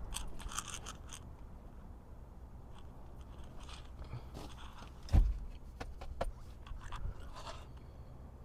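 Scattered clicks, scrapes and rustles of handling, with one dull thump about five seconds in and a couple of lighter knocks after it.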